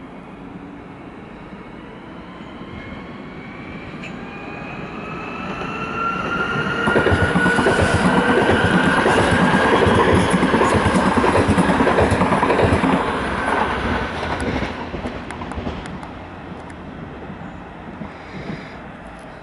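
A train passing close at speed: its rumble and wheel clatter build up, peak loud for about six seconds, then fade away. A faint rising whine is heard during the approach.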